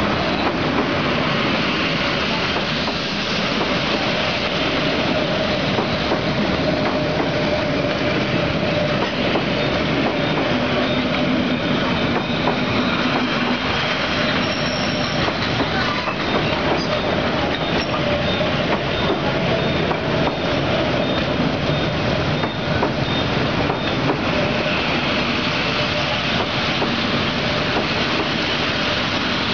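Vietnamese passenger train LC4 rolling past close by: a loud, steady noise of wheels on the rails, with a faint whine held over it.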